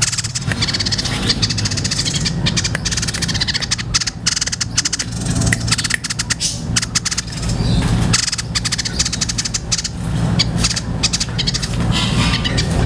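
White-breasted babbler (tepus dada putih) calling continuously: a fast, dense rattling chatter of calls, the fighter-style song used as masteran, over a steady low hum.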